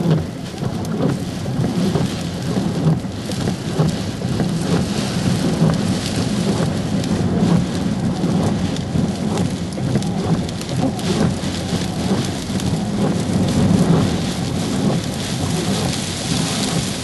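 Typhoon storm: heavy rain lashing down with strong wind gusting, surging and easing, and a constant low rumble of wind buffeting the microphone.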